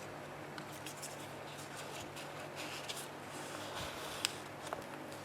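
Faint paper rustling with a few soft ticks and taps as a junk journal page's envelope flip and journal card are handled.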